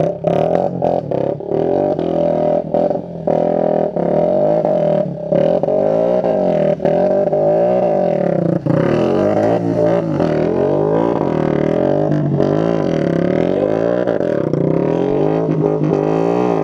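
Motorcycle engine revving hard through a loud, buzzy exhaust, its pitch rising and falling repeatedly with overlapping engine tones. For the first several seconds the sound cuts out briefly again and again before running on unbroken.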